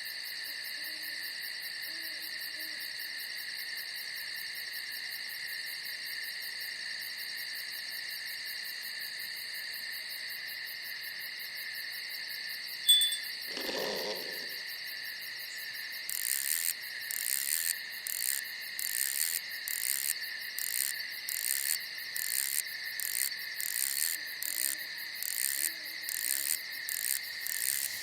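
Night insects, crickets, trilling steadily on several high pitches. A sharp click and a brief lower call come just before halfway, and a rhythmic chirping of about one pulse a second joins in just past halfway.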